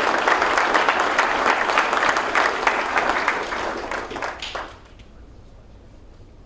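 Audience applauding, a dense clapping that tapers off and stops about three-quarters of the way through, leaving low room tone.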